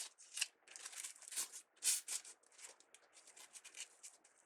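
Crinkly rustling of craft ribbon being handled and tucked into a wreath: a string of short, irregular scratchy rustles.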